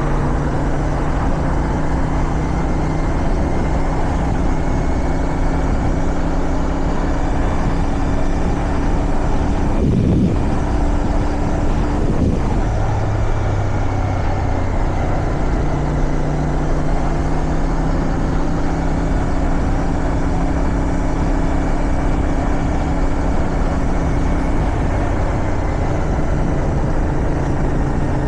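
Motorcycle engine running at a steady cruise under wind noise. Its pitch dips sharply and recovers twice, about ten and twelve seconds in, and then settles lower for a few seconds before rising again.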